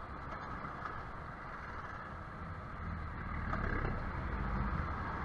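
Onboard sound of a Yamaha YZF-R15 motorcycle being ridden: its single-cylinder engine running under wind and road noise, growing louder about three seconds in as it pulls harder.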